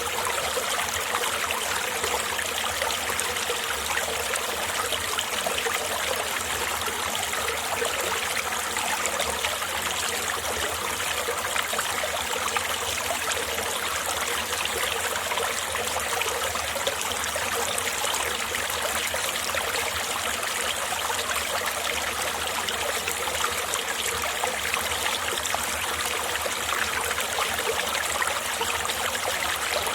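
Winter mountain-valley stream flowing over rocks: a steady, even sound of running water.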